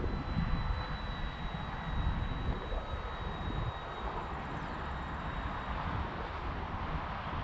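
Electric motor and propeller of a Durafly Spitfire Mk24 RC model whining in flight: a thin, steady high tone that eases slightly down in pitch. Gusting wind rumbles on the microphone underneath, strongest early on.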